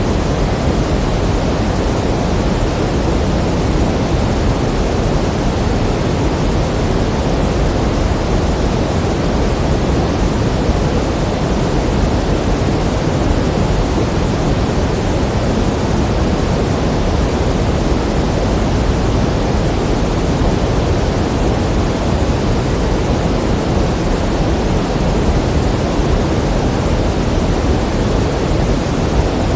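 Pink noise: a steady, even hiss with more weight in the low end, unchanging throughout.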